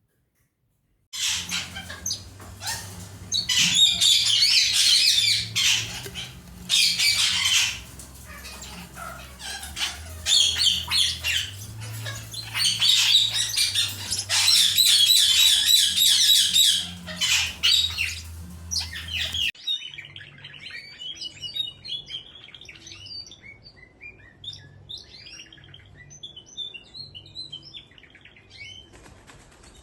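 Several cage birds singing and chirping loudly, with some squawks. About two-thirds of the way through, the sound cuts abruptly to quieter, scattered chirping.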